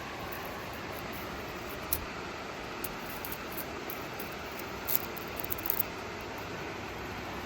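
Steady background hiss with a few light, sharp clicks: one about two seconds in and a short cluster about five seconds in.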